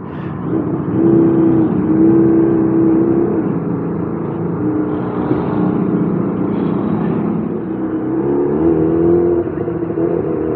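Motorcycle engine running at low, fairly steady revs in slow traffic, its pitch rising and falling slightly a few times.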